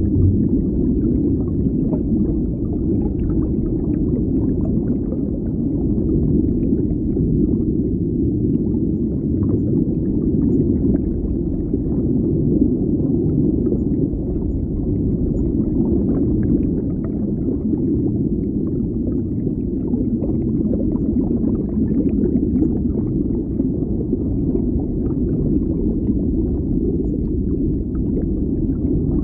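Underwater ambience: a steady, deep rumble of water with faint crackling.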